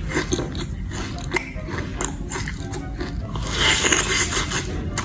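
Close-miked biting and chewing of a Dubai chewy cookie, with many crisp crunching clicks from its kataifi filling. A louder, longer crunch comes a little after halfway, over a steady low hum.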